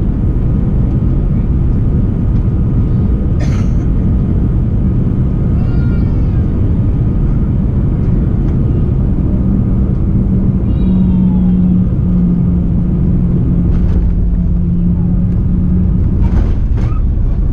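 Steady rumble on the flight deck of an Airbus A340-300 rolling along after landing. A steady low hum joins it from about ten seconds in until near the end.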